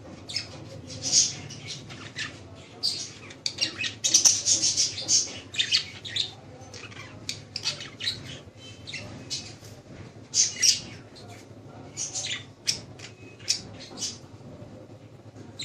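A flock of small caged parrots chattering and squawking: many short, high, scratchy calls overlapping, busiest about four to six seconds in and again around ten seconds in.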